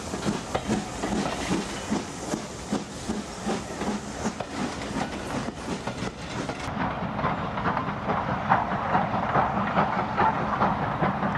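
Sound-fitted model steam tank engine running along the track. Its chuff beats at about three a second, over a hiss and the clatter of wheels on rail joints. Just over halfway through, the sound changes suddenly and the wheel clatter becomes louder and busier.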